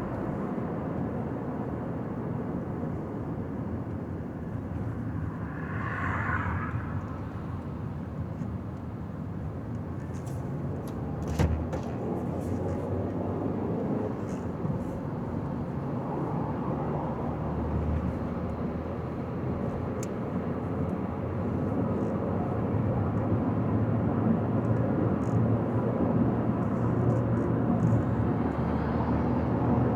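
Car driving at highway speed: a steady rush of tyre and road noise over engine hum. A brief hiss comes about six seconds in and a single sharp knock about halfway, and the noise grows a little louder in the last third.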